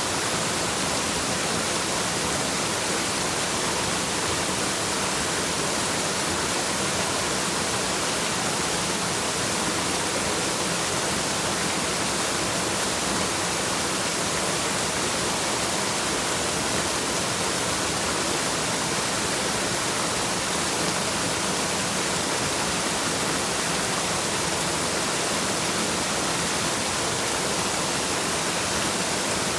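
Waterfall rushing, a steady, unbroken hiss of falling water with no changes.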